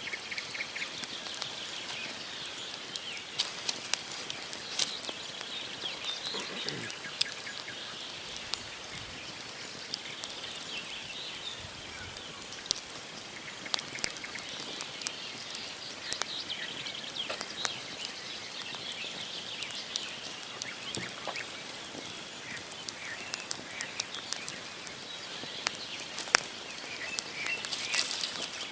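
Wood campfire burning, logs crackling and popping with frequent sharp snaps. Small birds chirp now and then in the background.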